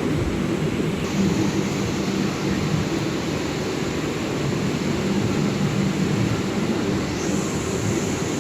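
GoodCut 1325 CNC router running as it cuts wood: a steady machine hum with a high hiss that changes about a second in and again near the end.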